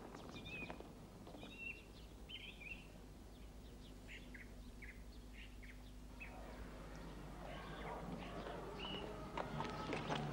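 Small birds chirping in short, scattered high calls over a faint outdoor background, with a run of knocks starting near the end.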